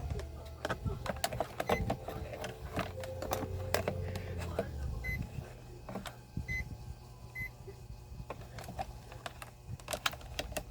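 Clicks and knocks of handling a digital multimeter and its test leads on a workbench, with three short high beeps in the middle, over a steady low hum.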